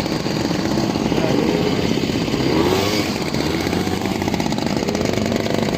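Small ATV engine running steadily under way, a rapid even buzz of firing pulses.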